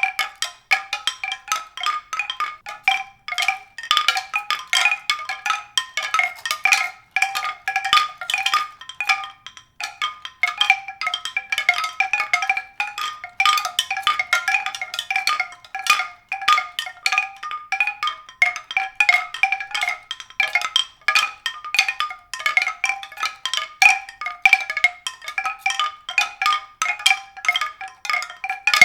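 Tuned percussion: a dense, continuous stream of quick, bright pitched notes struck several times a second.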